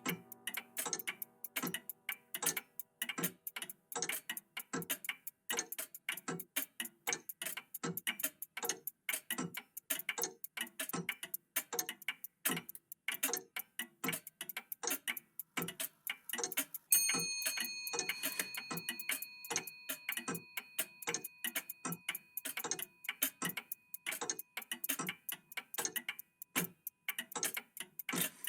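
Several old mechanical clocks ticking at once, their ticks overlapping at a few per second. About two-thirds of the way in, a single high bell chime strikes and rings out, fading over several seconds.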